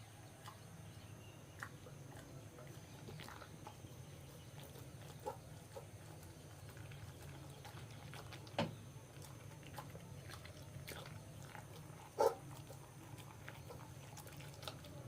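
A Labrador eating: slow chewing with scattered small mouth clicks and two louder sharp clicks in the second half, over a steady low hum.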